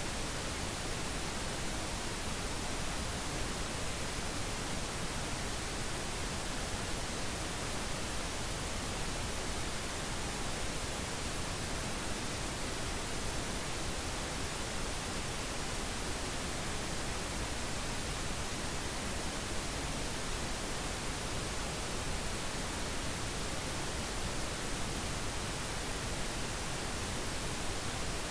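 Steady synthetic pink noise: an even, unbroken hiss spread across the whole range, with no change in level.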